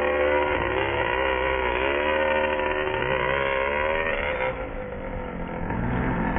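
Small nitro engine of an ARX 540 RC motorcycle running at high revs, its pitch rising and falling over and over as the throttle is worked. The sound cuts off suddenly at the end.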